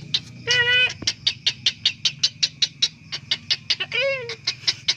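A bird gives two short, clear calls that rise and fall in pitch, about half a second in and again near four seconds in. Under them runs a steady, rapid ticking of about eight pulses a second.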